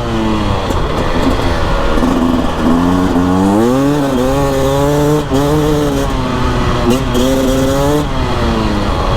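Beta RR 300 two-stroke single-cylinder enduro engine under way, its revs climbing and dropping several times as the throttle is opened and closed, with a steadier stretch in the middle.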